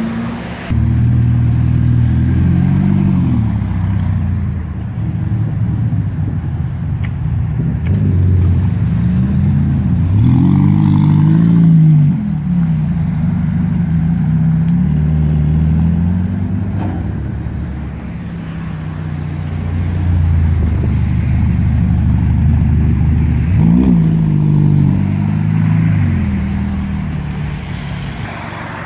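Ferrari Roma's 3.9-litre V8 running under way, its note rising and falling with the revs, with a sharp rise and drop about ten seconds in and another one later.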